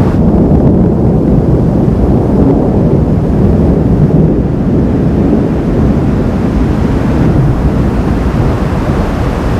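Thunderstorm noise: a loud, steady low rumble that eases slightly about halfway through.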